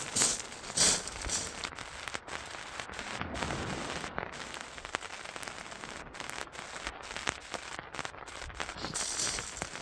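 Heavy rain pattering steadily, with many short crackling clicks of drops hitting close by.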